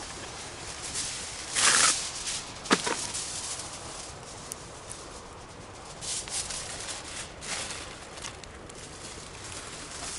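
Campfire crackling with scattered pops, a louder rustling burst just before two seconds and a sharp snap soon after.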